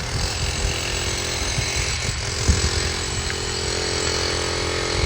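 Demolition machinery or a power tool running steadily at a building teardown: an even, harsh noise with a few brief low thuds.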